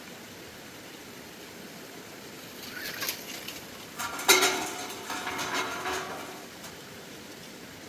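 Metal clanking: a short scrape, then a sharp strike just after the middle that leaves a ringing tone for about two seconds, like a steel piece knocked or set down.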